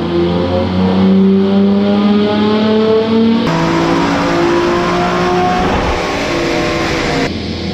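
Twin-turbo Nissan GT-R engine at full throttle on a chassis dyno, its pitch climbing steadily as it pulls up through the revs. The sound changes abruptly about three and a half seconds in, then climbs again.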